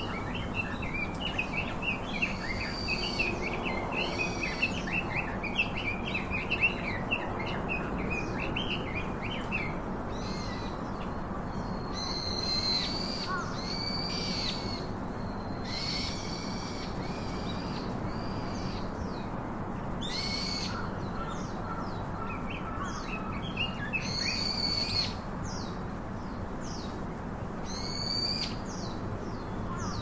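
Wild birds calling: a rapid chattering of many short notes for the first third, then separate loud calls every two to four seconds, over a steady low background hum.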